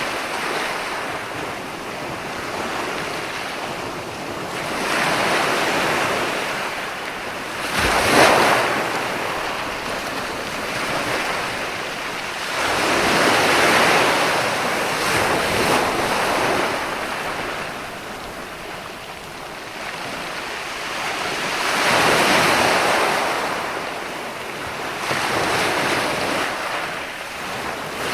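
Ocean surf breaking and washing onto the shore in slow swells every few seconds. A sharper crash comes about eight seconds in, and broad surges follow around fourteen and twenty-two seconds.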